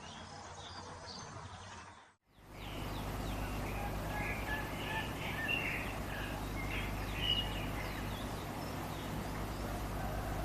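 Small songbirds chirping and twittering in short, scattered calls over a steady low rumble and hiss. About two seconds in the sound drops out for a moment and picks up again with a louder background, and the calls cluster through the middle.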